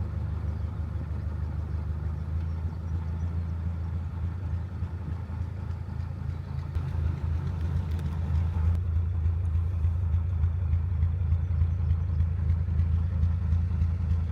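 Narrowboat's engine running steadily at low revs, a deep even hum that grows louder about halfway through.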